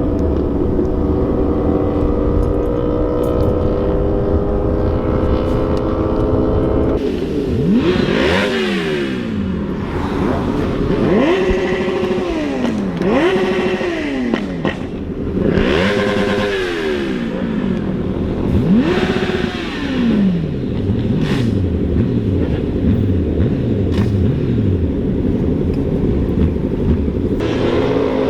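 A vehicle engine running steadily, then revved hard about five times in quick succession from about seven seconds in, each rev rising in pitch and falling back, before it settles to a steady run again.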